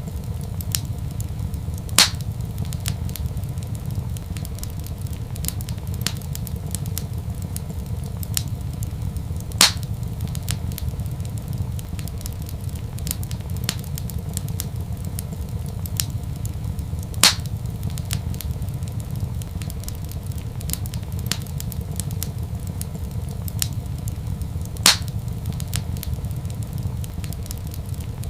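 Wood fire crackling in a fireplace over a steady low rumble, with many faint ticks and four louder pops evenly spaced about seven and a half seconds apart.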